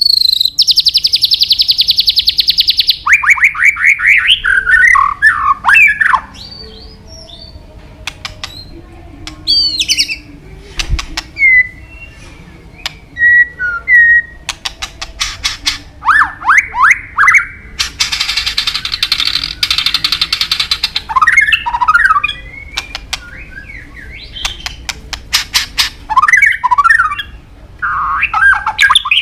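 White-rumped shama (murai batu) in full song, giving a varied string of phrases: fast buzzy trills, slurred whistles and a harsh rattling buzz, much of it mimicked 'isian' phrases borrowed from other birds.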